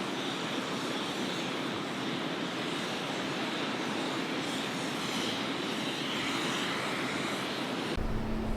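Motorboat engines running under a steady rush of wind and water. Near the end the sound changes abruptly to a deeper drone with a steady hum.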